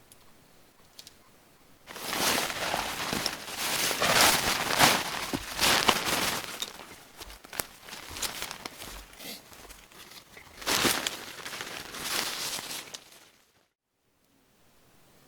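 Close rustling and crinkling with small clicks, starting about two seconds in and cutting off abruptly near the end.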